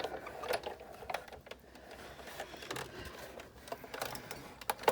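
Irregular light clicks and taps of plastic and metal as a Sizzix Big Shot manual die-cutting machine is worked, its cutting plates and dies being handled and fed through.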